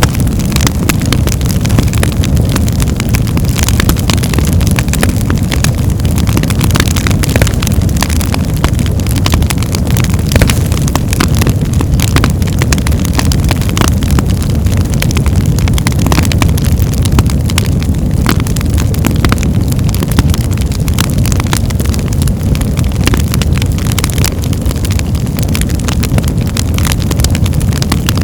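Birch logs burning in a fireplace, crackling and popping constantly over a steady low rumble.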